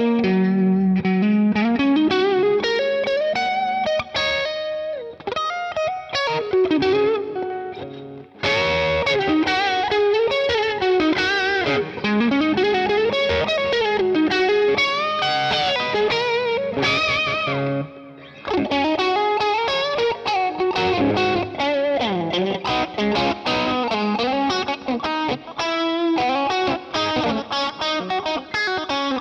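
LTD ST-213 electric guitar played through distortion: a lead line of quick notes with bends and slides, breaking off briefly about eight and eighteen seconds in.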